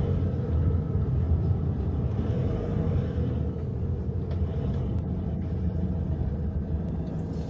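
Vehicle running, heard as a steady low rumble of engine and road noise from inside a moving car.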